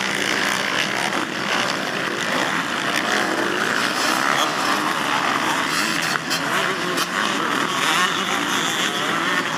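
Several motocross dirt bikes racing, their engines revving up and down and overlapping in a continuous, loud drone as the pack rides the track.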